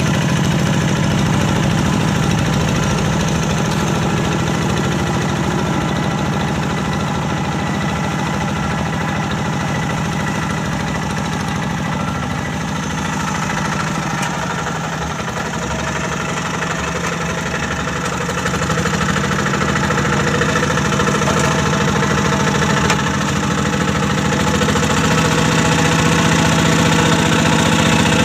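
Single-cylinder diesel engine of a Kubota-powered Quick G1000 Boxer hand tractor running steadily while plowing a paddy. Its note drops a little for a few seconds around the middle, then picks up again toward the end.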